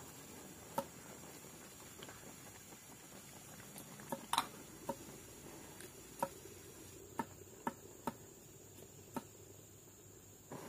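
Light clicks and taps at irregular intervals, about ten of them, the loudest a little past the middle, over a faint steady hiss and a thin, high, steady tone.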